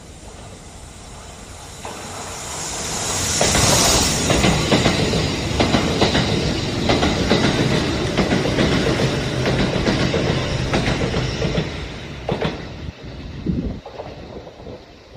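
Kintetsu electric train passing: the sound builds to its loudest about four seconds in, with a run of wheel clacks over the rail joints, then fades away near the end.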